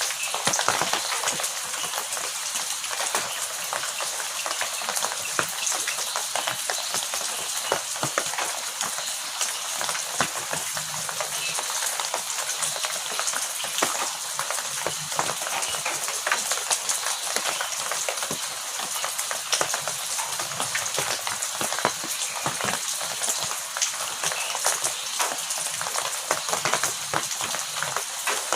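Heavy rain falling steadily, a dense hiss full of close drop ticks, with no thunder.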